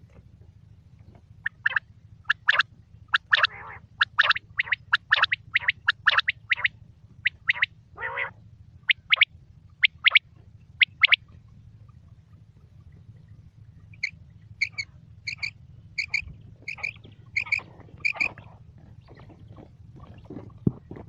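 Quail calling: a quick run of short, sharp calls, then after a pause a string of about eight clear, evenly spaced notes, roughly one and a half a second. A steady low hum lies underneath.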